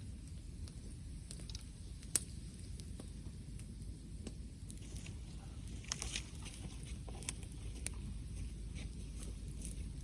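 Wood bonfire crackling: scattered sharp pops, a loud one about two seconds in and a cluster around six seconds, over a low steady rumble.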